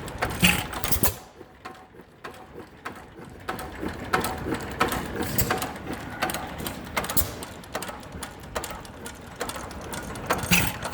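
Antique stationary gas engines running, with irregular mechanical clicking and ticking from their valve gear and ignition, loudest in the first second.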